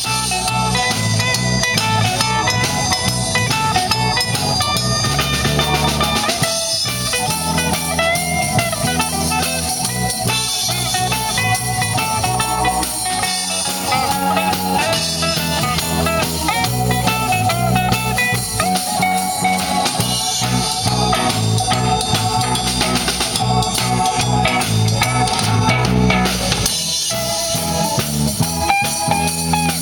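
Live blues band playing an instrumental break: a lead guitar line with bending notes over bass guitar and drum kit.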